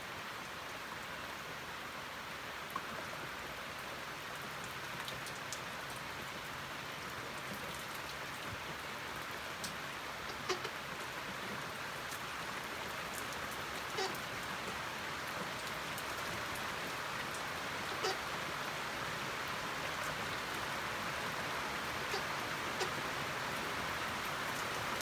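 Steady rain falling, a little heavier near the end, with a few louder single drops striking close by.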